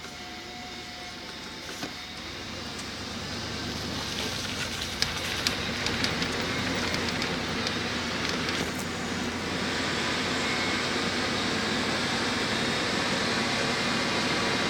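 Car driving on a road: tyre and engine noise grows louder as it gathers speed over the first several seconds, then holds steady. Scattered light clicks come through in the middle.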